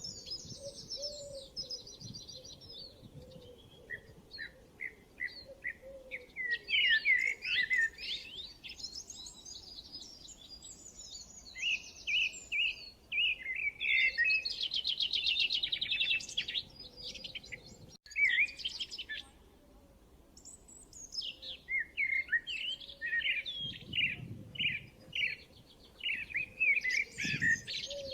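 Several songbirds singing and calling together: quick repeated chirps, short whistled notes and fast buzzy trills, with a brief dropout about two-thirds of the way through.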